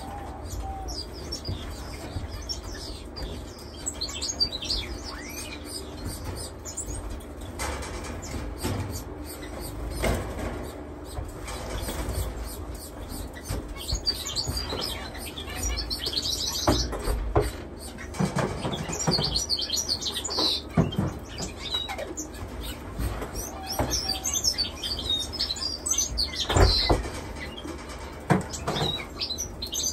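A roomful of caged finches chirping, many short high calls overlapping throughout, with occasional thumps and knocks, the loudest about three seconds before the end.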